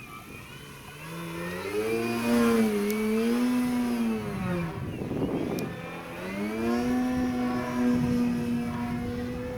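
Radio-control airplane in flight, its motor and propeller giving a buzzing whine that wavers in pitch as it manoeuvres. The pitch sinks and a brief rush of air comes about five seconds in as it passes close, then the whine climbs back and holds steady.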